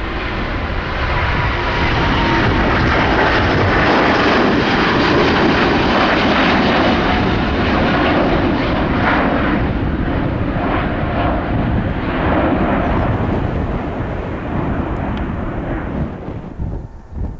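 Airbus A350-900 airliner departing, its two Rolls-Royce Trent XWB turbofans at high thrust: a loud, steady jet rush that builds over the first couple of seconds, holds, then fades away near the end.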